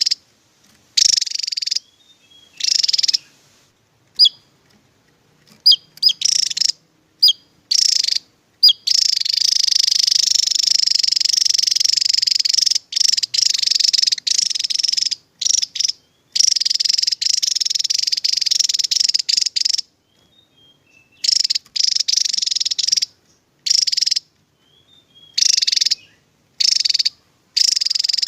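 Javan tesia singing in rapid, high-pitched trilled bursts of uneven length, the longest running a few seconds near the middle, with short thin whistled notes in the gaps between bursts.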